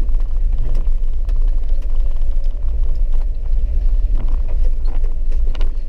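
Cabin noise of a four-wheel-drive vehicle driving a rough, wet dirt road: a steady low rumble from the engine and tyres, with scattered knocks and rattles throughout.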